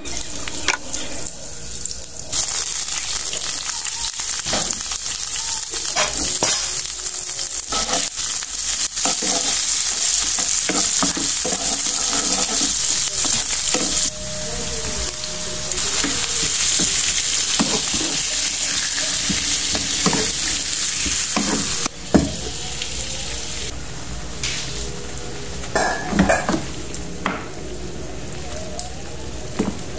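Food frying in hot oil in a nonstick pan: butter melting, then chopped shallots and chilies, then octopus pieces, with a loud continuous sizzle and the knocks and scrapes of a wooden spatula stirring. The sizzle jumps in level abruptly at a few points between clips.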